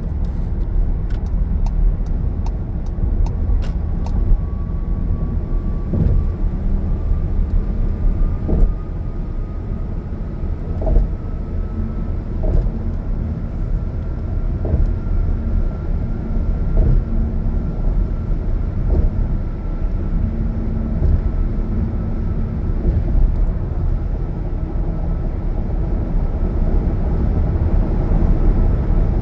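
A car driving at speed with a steady road and engine rumble. A faint whine rises slowly in pitch, and there is a light thump every couple of seconds. A quick run of ticks comes in the first few seconds.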